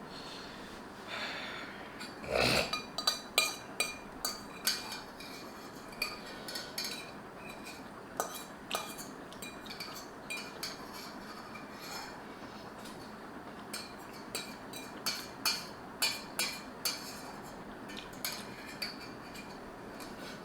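Eating utensils clicking and clinking against a bowl in scattered irregular taps, with a louder knock about two and a half seconds in.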